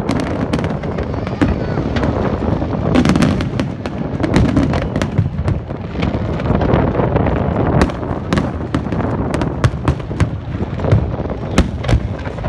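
Fireworks display going off in a dense barrage: many sharp cracks and bangs in quick succession over a continuous low rumble.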